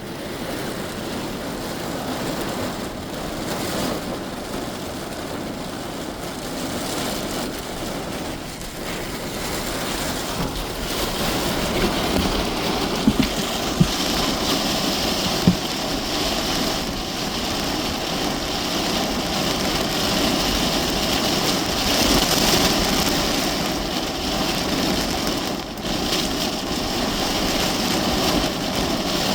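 Heavy rain drumming on a parked car's roof and windshield, heard from inside the cabin, steady and slowly getting heavier. A few sharper knocks come about halfway through.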